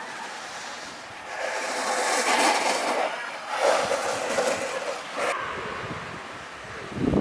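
Hissing scrape of an alpine snowboard's edge carving across the slope, coming in three surges that cut off sharply a little after halfway.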